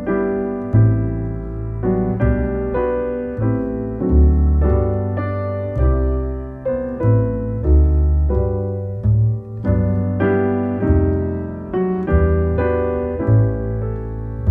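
Background piano music: a slow, gentle melody over bass notes, each note struck and then fading.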